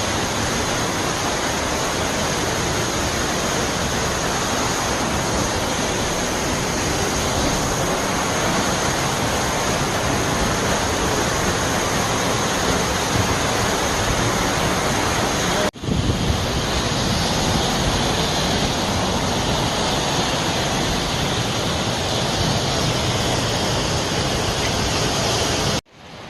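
Steady rush of a tall waterfall, Yahoo Falls, running high after heavy rain. It breaks off for an instant about 16 seconds in, then carries on the same.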